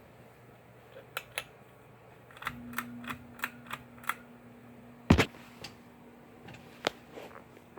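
A series of sharp switch clicks on a ceiling fan, the loudest about five seconds in. A low electrical hum changes to a higher pitch about two and a half seconds in, as the clicks start coming quickly.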